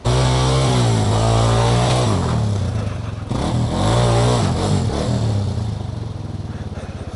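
Trail motorcycle engine revving up and down a couple of times, then settling to an idle with an even pulsing beat near the end.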